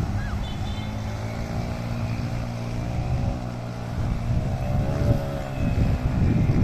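Yamaha XTZ 125's single-cylinder four-stroke engine running under load as the motorcycle is ridden through a river, its pitch rising and falling about five seconds in.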